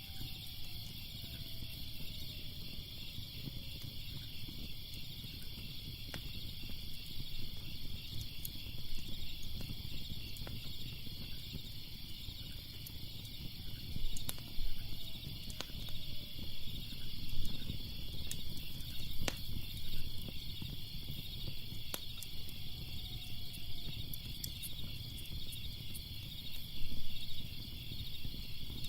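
Wood fire crackling with scattered sharp pops over a low rumble, set against a steady chorus of crickets chirping.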